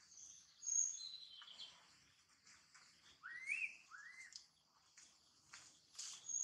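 Forest birds calling: a high whistled note about a second in, then two rising-and-falling calls around three and four seconds in, over a faint steady high hiss.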